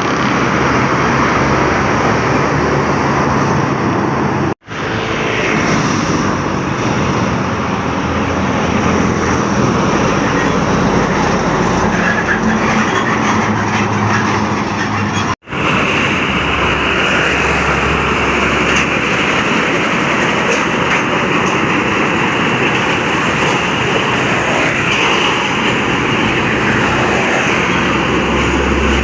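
Heavy trucks and other road traffic driving past on a highway: steady engine and tyre noise, cut off abruptly for an instant twice, about four and a half seconds in and again about fifteen seconds in.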